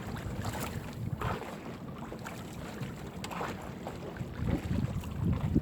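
Wind buffeting the microphone on a small fishing boat, with irregular knocks and clicks from a crab gill net being hauled in by hand. Heavier thumps come near the end.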